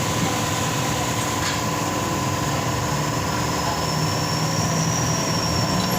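A steady mechanical hum with a constant mid-pitched tone and a faint high whine, like a motor or engine running without change.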